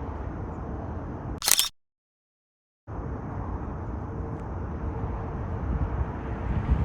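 Steady low outdoor rumble, broken about a second and a half in by a brief loud click, then about a second of dead silence where the recording cuts, before the rumble returns.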